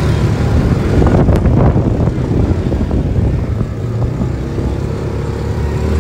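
UTV engine running under way, with a burst of rattling and knocks between about one and two seconds in.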